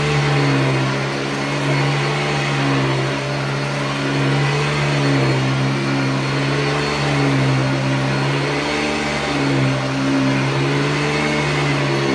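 1985 Hoover Decade 80 upright vacuum, fitted with an 11-bladed fan, running with a steady motor hum and rushing air that waver slightly in pitch.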